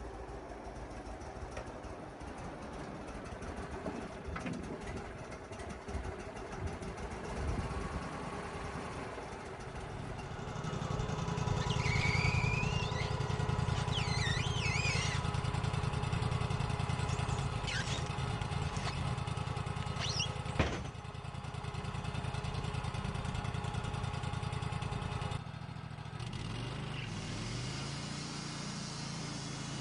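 An engine running steadily, getting louder and heavier about ten seconds in, with some high squeals, a sharp click about twenty seconds in, and a drop and shift in pitch near twenty-five seconds.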